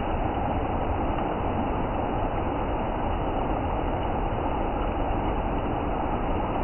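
Steady rush of a waterfall, water pouring down without a break.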